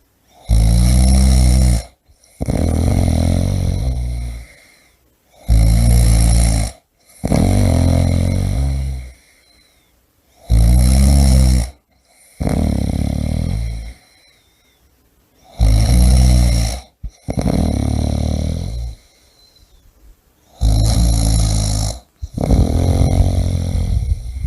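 A person snoring heavily and regularly, about one breath every five seconds. Each breath is a loud, deep, rattling snore followed by a softer, longer breathing sound, five times in all.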